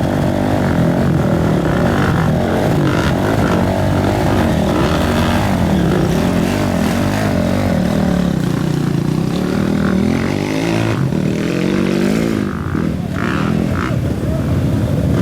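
Enduro motorcycle engines revving, their pitch rising and falling, with a brief lull about twelve seconds in.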